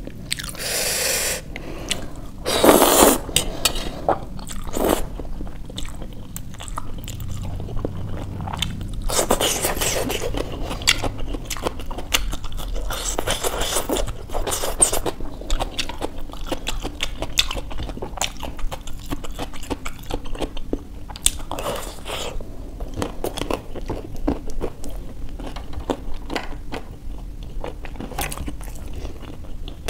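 Close-miked eating sounds: a person chewing forkfuls of instant noodles and biting and crunching raw onion and cucumber. There are repeated wet clicks and crackles, with a fork scraping on a steel plate.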